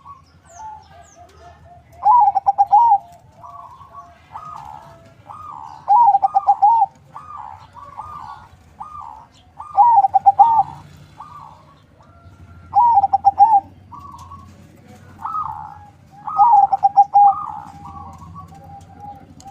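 Perkutut (zebra dove) of local × Bangkok cross cooing, sung as a lure call: five loud, trilled coo phrases come about every three to four seconds, with fainter coos between them.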